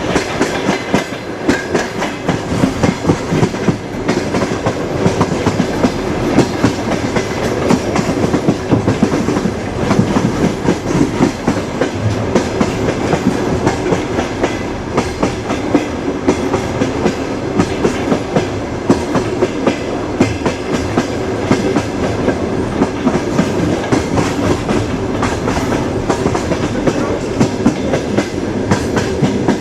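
Moving train: a steady rumble of the railcars with wheels clacking over the rail joints, many sharp clicks and knocks in an irregular stream.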